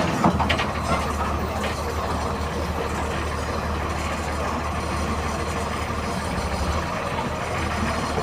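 MWM 6.12 TCE 7.2-litre six-cylinder turbo-intercooled diesel of a VW 17-230 EOD bus running steadily with an even low hum, with a few light clicks in the first second.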